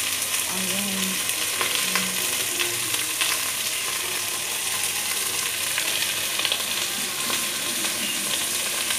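Chicken pieces and freshly added sliced onions sizzling in hot oil in a frying pan, a steady hiss with small crackles.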